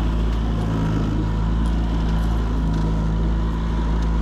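Boat outboard motor running steadily, with wind buffeting the microphone.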